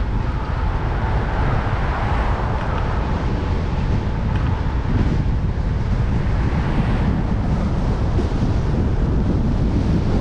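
Strong wind buffeting the microphone of a cyclist's camera while riding: a steady low rumble with a broad hiss that swells twice.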